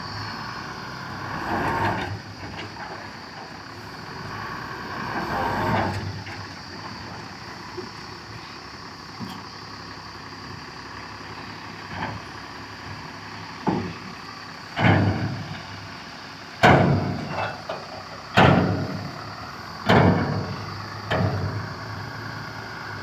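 Heavy diesel machinery running steadily, with two slow swells in the first few seconds, then six sudden loud bangs or bursts, each dying away quickly, in the second half.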